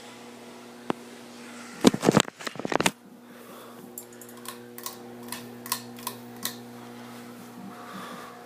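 Ceiling fan motor humming steadily. A single click comes about a second in, then a loud burst of clattering clicks, then a run of evenly spaced ticks, about two or three a second.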